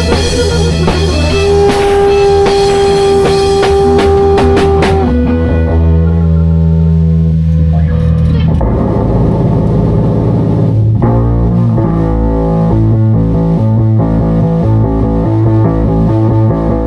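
Live improvised rock jam: electric guitar through effects holds a long note over bass and drums; about five seconds in the drums drop out, leaving guitar and bass playing on.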